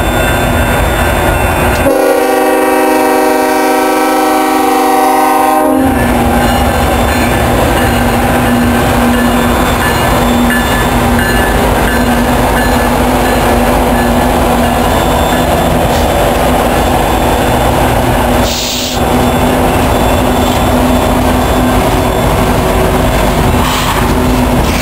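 Union Pacific freight train passing close by. Its locomotive horn sounds one long chord of about four seconds, starting about two seconds in. The lead locomotives then go by with a steady heavy engine rumble and hum, followed by freight cars rolling along the rails.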